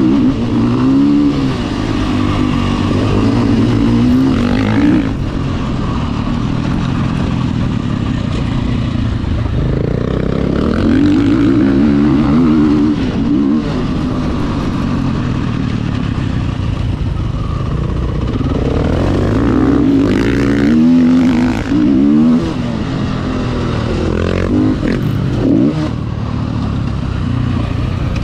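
Motocross dirt bike engine revving up and down over and over, its pitch climbing as it accelerates and dropping as the throttle is backed off.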